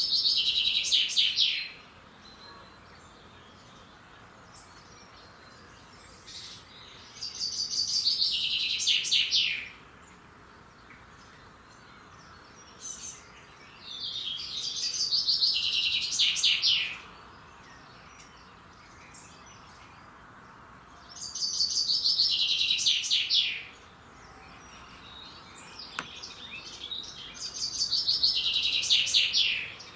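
A songbird singing the same phrase over and over, about every seven seconds: each phrase is a fast run of notes that falls in pitch, lasting two to three seconds, over a faint steady outdoor hiss.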